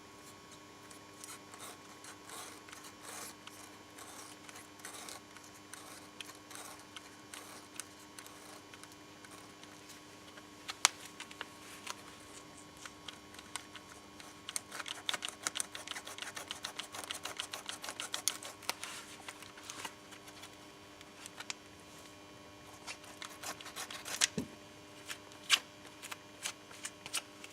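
A cutting tool trimming the excess off a cured rubber string plug sticking out of a tire's tread: quiet scraping and clicking, with a run of rapid scratchy cuts about midway and a few sharp clicks.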